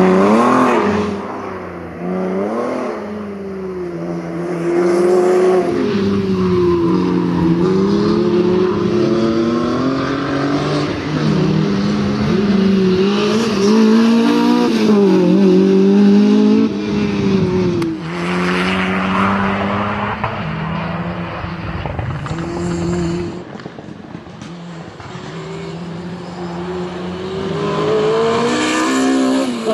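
Lotus Elise with a Honda K20A 2.0-litre four-cylinder engine, driven hard: the engine note rises and falls again and again as it accelerates, shifts and lifts. It goes fainter for a few seconds past the middle, then grows louder again near the end.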